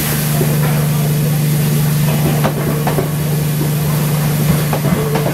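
Electric passenger train moving past on the adjacent track: a steady electric hum with scattered clicks and knocks of its wheels over the rail joints.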